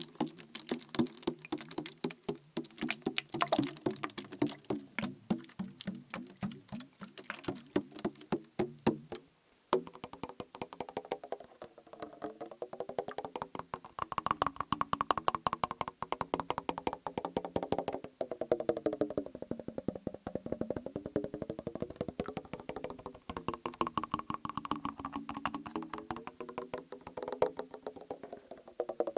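Fingers tapping a liquid-filled plastic bottle, giving hollow, pitched knocks. The taps are uneven at first, stop briefly about nine seconds in, then come back as fast continuous tapping whose pitch wavers up and down.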